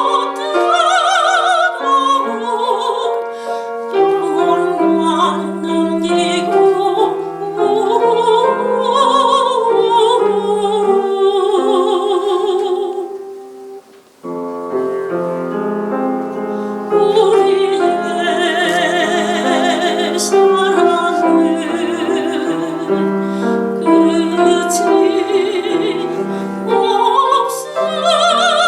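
Soprano singing a Korean art song (gagok) in operatic style with piano accompaniment, held notes carrying a wide vibrato. The music drops away briefly about fourteen seconds in, then resumes.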